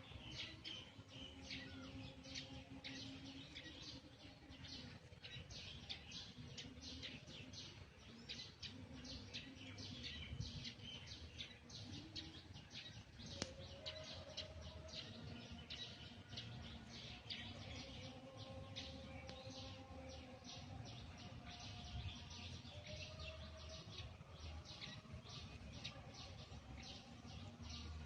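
Small birds chirping in quick, repeated short notes, faint and continuous.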